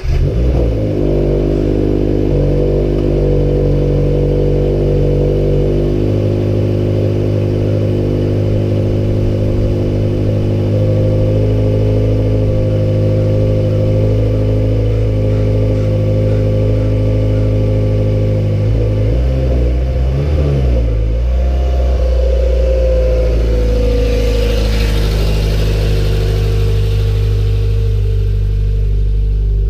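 2017 Subaru BRZ's 2.0-litre flat-four boxer engine, breathing through an aftermarket Lachute Performance catback exhaust, catches right at the start and settles into a loud, steady high cold-start idle. The idle note shifts about twenty seconds in and then drops a little.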